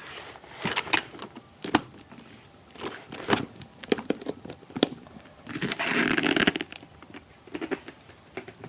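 Makeup train cases being handled: a run of sharp clicks and knocks from the cases and their trays, with a longer scrape or slide of about a second, a little past halfway.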